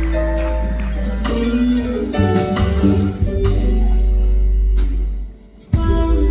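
A live smooth-jazz band plays a slow ballad, with sustained notes over drum hits and guitar. A little over five seconds in, the music drops out for a moment, then the band comes back in together.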